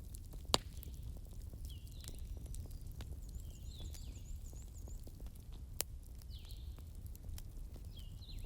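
Wood campfire burning with a low rumble and a few sharp crackling pops, one loud pop about half a second in and another near six seconds. Short descending chirping animal calls repeat in the background throughout.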